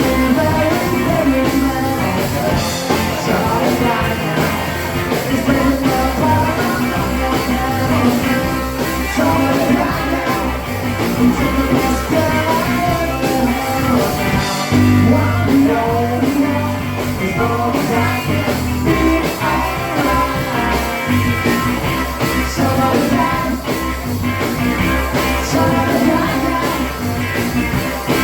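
Rock and roll band playing, with guitar and singing over a steady beat.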